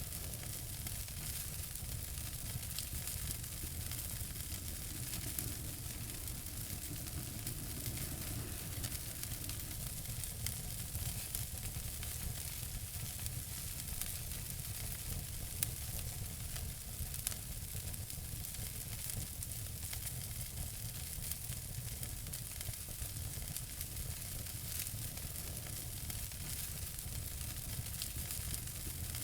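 Wood fire burning in a fireplace: a steady hiss with many small crackles and occasional louder pops, about halfway through.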